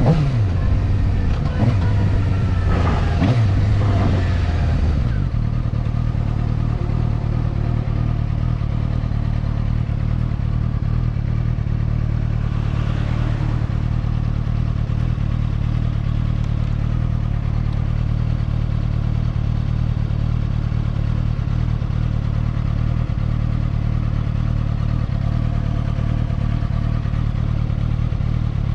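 Motorcycle engine under way. It rises and falls in pitch for the first few seconds, then settles about five seconds in into a steady drone at constant cruising speed.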